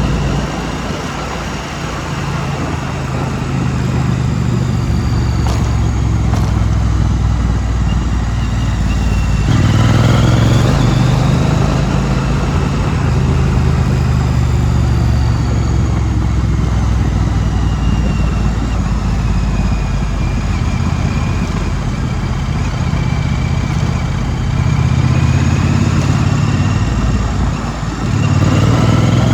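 2016 Triumph Street Twin's 900 cc parallel-twin engine running while riding. The engine note sags and then picks up with a rising pitch about ten seconds in, and again near the end.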